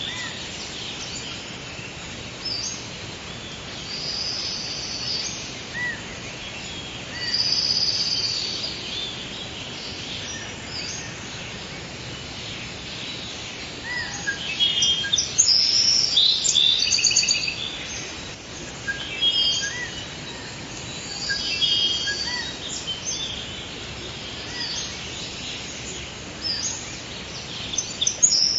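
Several birds singing and calling in a forest: short high chirps, whistled notes and trills over a steady background hiss, with a louder stretch of song about halfway through.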